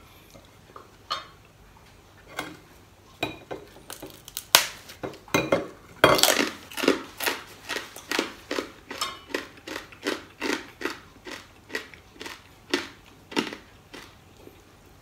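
Crunching as a mouthful of crispy fried pork skin is chewed, a quick steady run of crunches from about six seconds in, with a few separate clicks of chopsticks and dishes before it.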